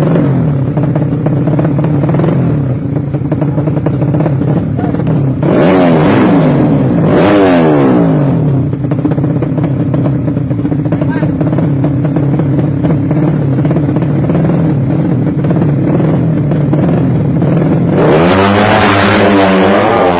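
Racing motorcycle engine, a 200cc 'sleep engine' with a horizontal cylinder, idling loudly and unevenly. The rider blips the throttle twice about six and seven seconds in, and revs it again near the end, the pitch rising and falling back each time.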